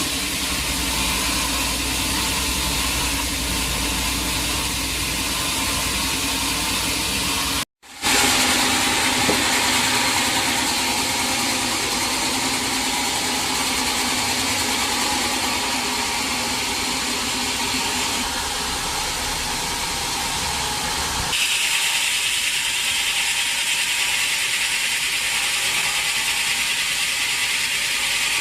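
Sawmill machinery running: a steady mechanical noise with a hiss. It drops out for an instant about 8 seconds in and changes abruptly again about 21 seconds in, becoming higher and thinner.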